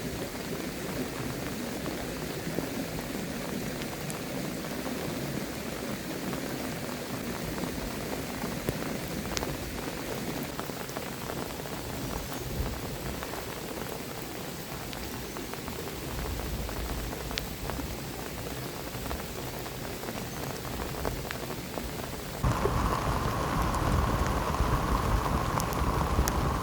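Heavy rain falling steadily, with a low rumble joining about halfway through. Near the end the rain abruptly turns louder and brighter in tone.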